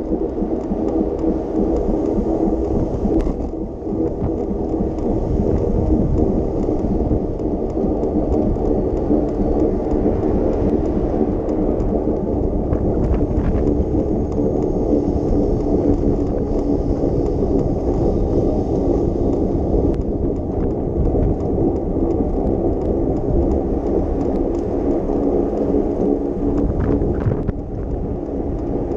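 Continuous low rumbling noise of riding a bicycle along city streets: wind on the microphone and tyres on the road, steady throughout.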